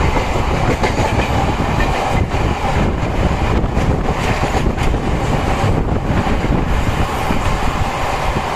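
Running noise of a MEMU passenger train at speed, heard from its open doorway: a steady loud rumble of steel wheels on the track, close alongside a line of covered goods wagons.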